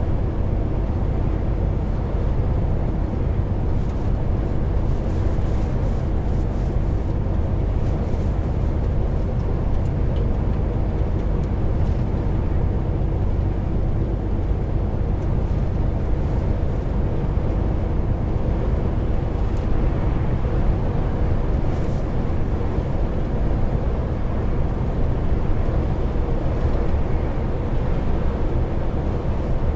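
Heavy truck driving along, heard from inside the cab: the diesel engine running with a steady low drone, along with road and tyre noise.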